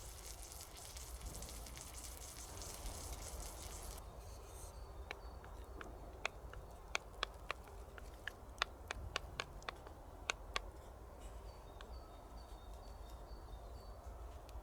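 Food frying with a steady sizzle that cuts off abruptly about four seconds in. After it come about a dozen sharp, separate clicks or cracks, then a few faint high chirps.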